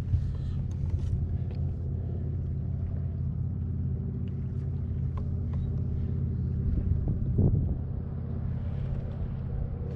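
Steady low engine drone with an even hum, swelling briefly about seven seconds in.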